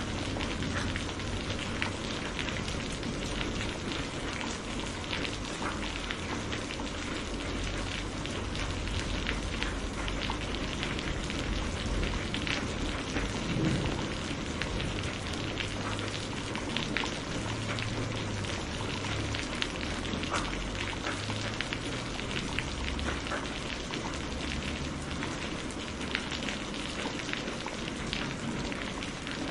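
Heavy rain falling steadily, with many individual drops ticking on a nearby surface. A low rumble of distant thunder comes and goes underneath through the middle.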